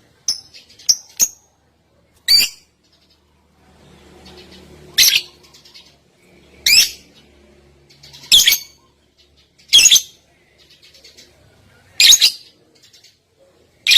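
Bird calls from a song-tutor recording: a few short high chips in the first second or so, then loud, harsh calls of about a third of a second each, repeated every one and a half to two seconds.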